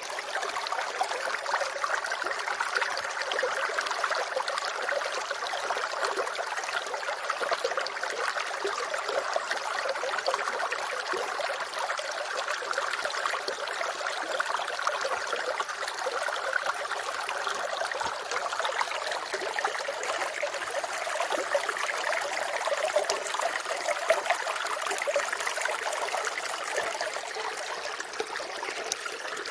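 Water running and trickling steadily in a continuous, even splashing flow.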